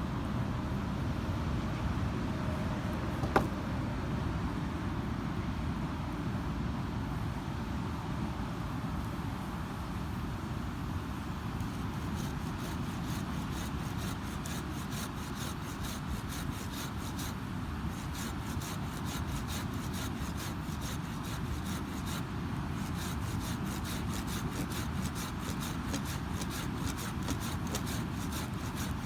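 Wood campfire crackling, with one sharp pop a few seconds in and a run of many small snapping ticks from about twelve seconds on. Under it runs a steady low rush of ocean surf.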